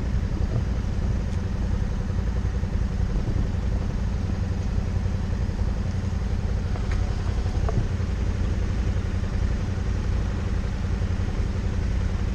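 Suzuki V-Strom motorcycle engine running steadily at a constant pace while riding, a continuous low rumble.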